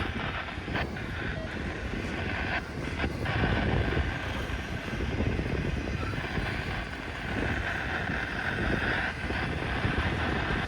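Train rolling past: a steady rumble of wheels on rail with a higher ringing hiss over it and a few short clicks in the first few seconds.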